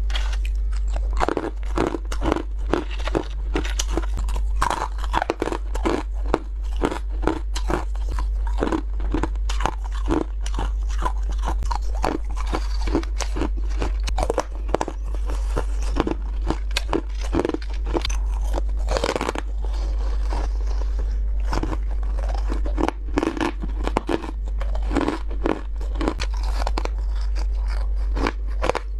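White ice being bitten and chewed close to the microphone: a continuous run of crisp crunches, several a second, with a brief lull about two-thirds of the way through. A steady low hum lies under it.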